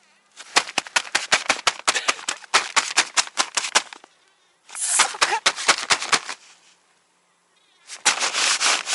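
Quick crackling and crinkling, many sharp clicks close together, then a burst of rustling about five seconds in and steady rubbing again near the end: tent fabric and bedding being handled and shifted inside a tent.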